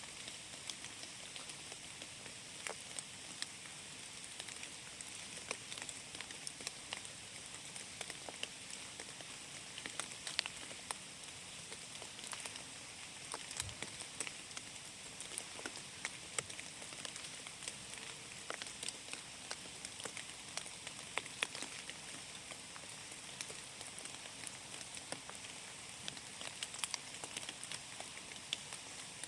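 Steady rain falling in forest, a constant hiss with many separate drops tapping irregularly close by.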